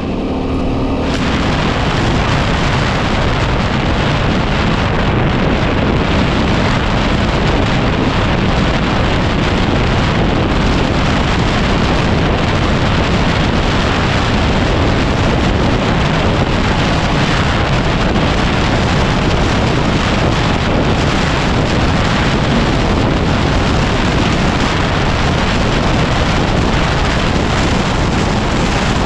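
Heavy wind noise buffeting the microphone of a moving motorcycle, a 2010 Yamaha WR250R single-cylinder trail bike, steady and unbroken, nearly drowning out the engine.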